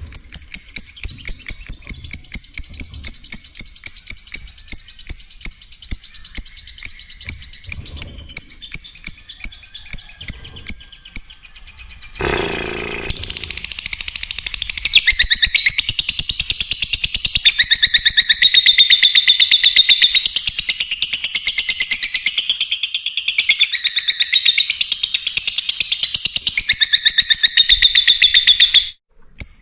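Lovebirds chirping: high, sharp chirps repeated about two to three times a second. About twelve seconds in, after a brief break, the sound changes to a dense, louder run of twittering calls, which stops abruptly just before the end.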